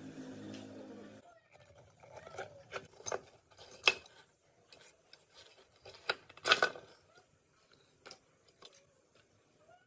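Small metal parts being handled and set down: a string of clicks and knocks, with two louder clanks about four and six and a half seconds in. A steady low hum stops about a second in.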